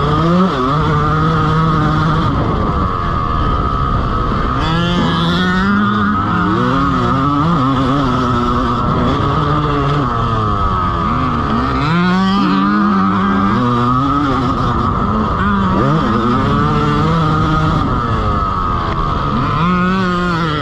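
Dirt bike engine revving hard around a motocross track, its pitch climbing through the gears and dropping off several times as the rider shuts the throttle and picks it back up.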